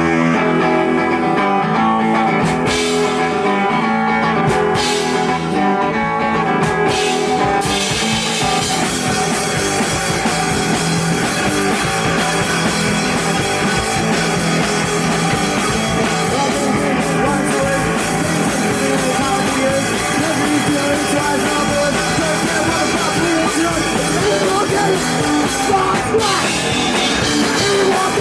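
Live rock band playing loud: guitar-led for the first several seconds, then drums and cymbals come in with the full band about seven to eight seconds in.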